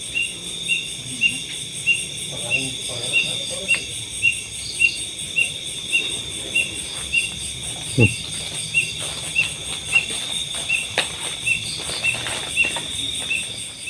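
Night insects, crickets among them, trilling steadily with a high chirp repeating about twice a second. A few faint clicks and a brief low sound come through about eight seconds in.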